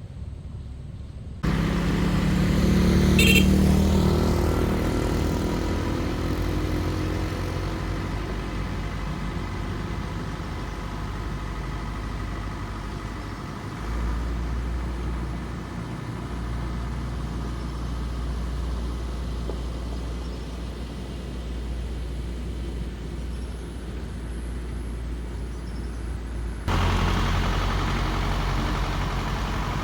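A car engine running steadily with a low hum. The sound changes abruptly twice, about a second in and near the end, and there is a brief crackle about 3 seconds in.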